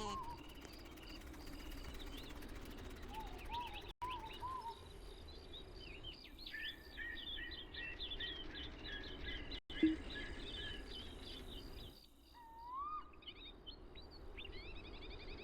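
Small birds chirping and twittering in dense, quick repeated notes, with a few slower rising-and-falling whistled calls lower in pitch; the sound cuts out completely for a moment twice.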